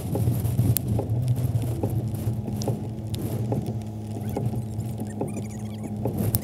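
Raindrops pattering and ticking irregularly on the camera, over a steady low hum.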